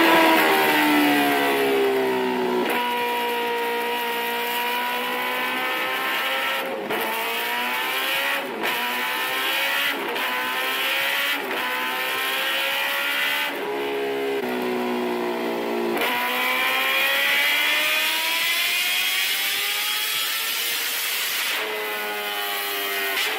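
Motorcycle engine revving hard and shifting through the gears: its pitch climbs in long sweeps and drops back sharply at each shift, many times over.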